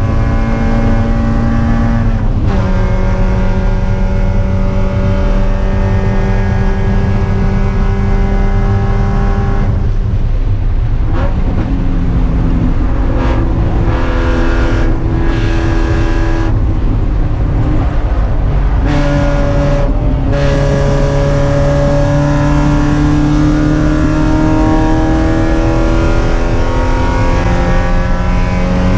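Spec Miata's four-cylinder engine at racing revs, heard from inside the car: an upshift about two seconds in, then a stretch of braking and downshifting with throttle blips midway, and the engine pulling up through the revs again near the end. A steady low rumble of road and wind noise runs underneath.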